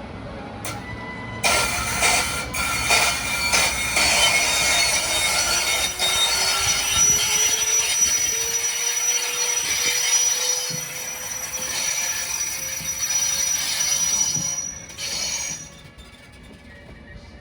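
A train hauled by a ČD class 193 Vectron electric locomotive running through the platform, its wheels squealing on the rails with a steady high-pitched squeal over dense clatter. A tone rises slowly in pitch under the noise. The sound starts about a second and a half in and drops away sharply near the end.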